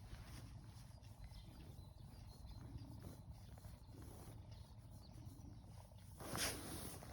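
Quiet outdoor ambience: a steady low rumble with a few faint, high bird chirps. A brief rustling burst comes about six seconds in.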